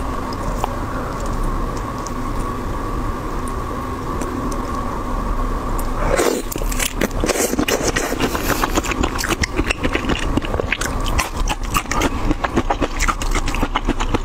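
Close-miked eating sounds of peeled shrimp. A steady hum with a few faint clicks gives way, about six seconds in, to biting and then rapid chewing clicks.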